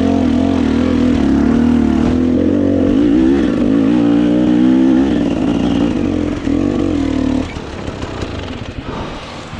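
Dirt bike engine running under varying throttle, its pitch wavering up and down, then dropping off sharply about seven seconds in as the bike slows.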